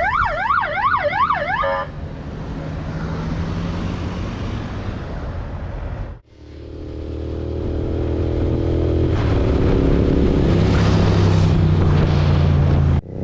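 An emergency siren wails quickly up and down, about three sweeps a second, over traffic noise for the first two seconds. After a brief break about six seconds in, a motorcycle engine runs steadily and grows louder, plausibly the BMW S1000RR's inline-four.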